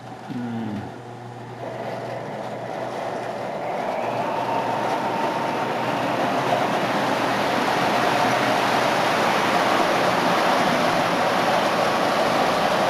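Postwar Lionel O-gauge model diesel locomotives, two dual-motor units, running on three-rail track while hauling a long train of loaded cars. The motors and wheels grow steadily louder over the first several seconds as the train picks up speed, then run on evenly.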